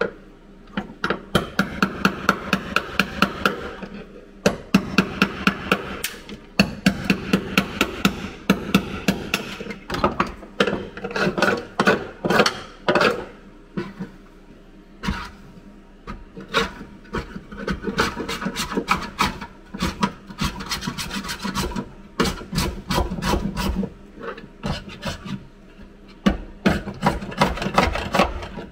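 Hand tool rasping over sheet metal in quick back-and-forth strokes, about three to four a second, in runs of several seconds with short pauses between.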